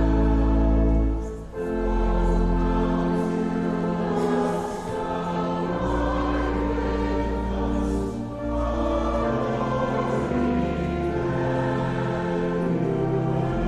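Choir singing with instrumental accompaniment and sustained bass notes, with a short break between phrases about a second and a half in.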